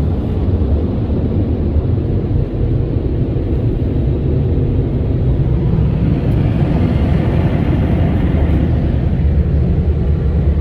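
Car wash dryer blowers running with a loud, steady roar.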